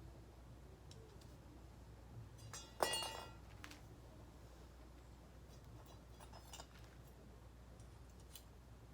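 Metal parts of a folding solo fire stand clinking and clicking as it is twisted and taken apart, with one sharp ringing clink about three seconds in and lighter taps before it and later.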